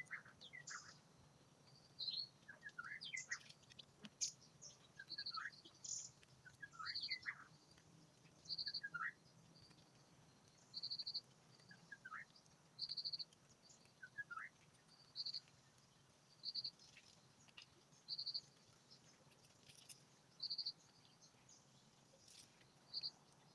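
Small birds chirping in quick rising notes, with a short buzzy trill repeated about every second or two.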